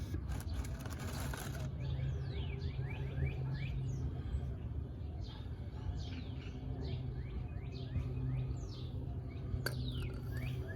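Birds chirping: many quick, downward-sliding chirps, over a steady low hum, with a sharp click near the end.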